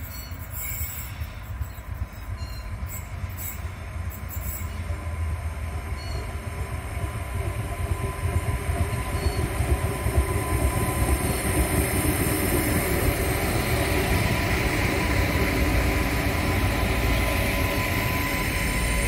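Adelaide Metro diesel railcar approaching and drawing past, growing steadily louder as it nears. A thin steady whine sits over the rumble of its engine and wheels.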